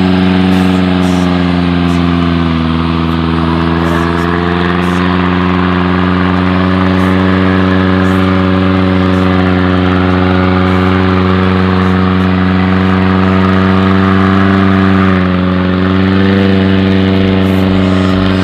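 Off-road 4x4's engine held at high, steady revs as the vehicle strains through deep mud, its pitch sagging briefly about three seconds in and again near the end.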